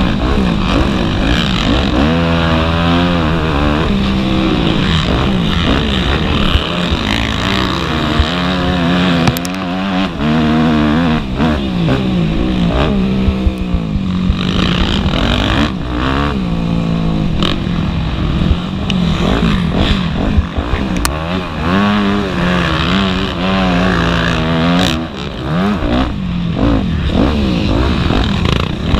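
Motocross bike engines racing, the pitch climbing and falling back again and again as the throttle is opened and shut.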